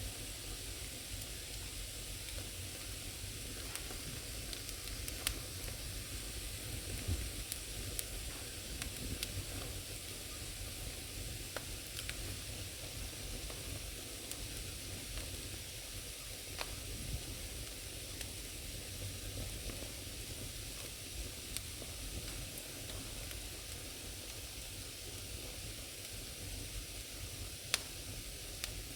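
Firewood burning in a fireplace: a steady hiss with scattered sharp crackles and pops every few seconds.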